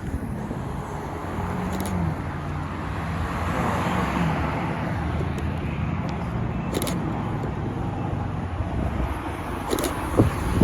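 Car engine running low with a steady rumble, its pitch lifting briefly twice, as tyre and road noise swell and fade around the middle.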